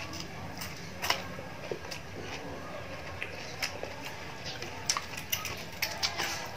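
Close-up eating sounds: chewing crisp fried fish, with irregular sharp crunches and mouth clicks that come more often in the second half, over a steady low hum.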